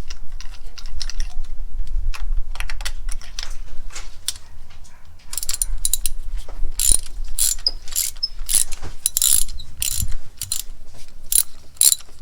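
Ratchet wrench clicking in short back-and-forth strokes as spark plugs are loosened from the engine; the clicks get louder and come faster about halfway through.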